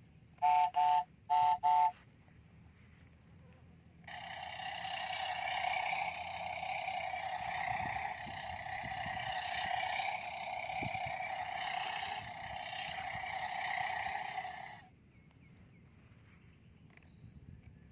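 A battery-powered toy construction vehicle's sound chip: three short loud beeps, then a continuous electronic engine-roar sound effect lasting about eleven seconds that cuts off suddenly.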